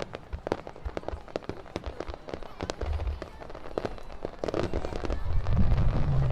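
Fireworks display: a dense run of crackling pops, with deep booms of shells bursting about three seconds in and again through the last second and a half.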